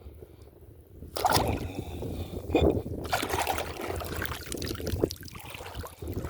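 Shallow sea water splashing and sloshing in irregular strokes, starting about a second in, as someone wades or scoops at the water while crabbing.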